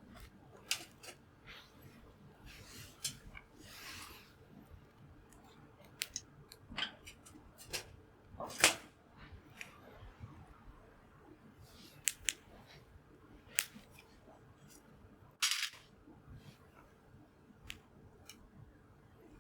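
Wood fire crackling, with irregular sharp pops and snaps of burning firewood; the loudest pop comes about halfway through and another strong one a few seconds later.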